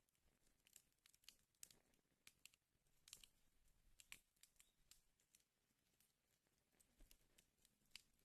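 Faint crackling of a fire burning in a fireplace: scattered, irregular sharp pops, with a thicker cluster about three to four seconds in.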